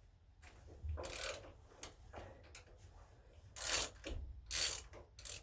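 Socket ratchet clicking in four short bursts as it is swung back and forth to loosen a spark plug through a 5/8 extended socket.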